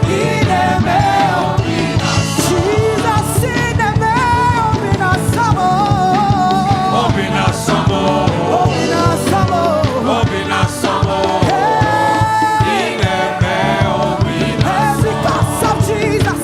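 Live gospel praise and worship music: a band with drums playing a steady beat under singing.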